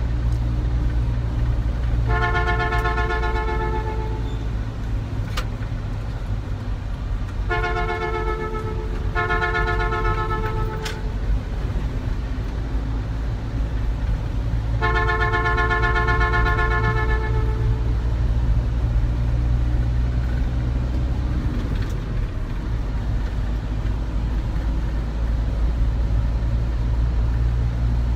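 Steady low rumble of a road vehicle running, with four long vehicle horn blasts over it: one about two seconds in, two close together around eight to eleven seconds, and a longer one around fifteen seconds.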